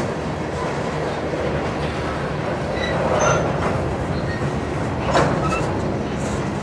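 Covered hopper cars of a freight train rolling past: a steady rumble of steel wheels on rail, with brief high-pitched wheel squeals and two sharp clanks, about three and five seconds in.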